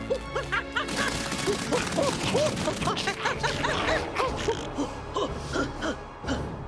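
Cartoon soundtrack: busy music mixed with characters' gasps and short vocal effort sounds, many quick rising-and-falling pitches over a dense noisy background from about a second in.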